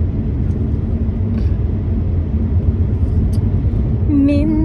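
Steady low rumble of background noise, with a voice starting to sing near the end.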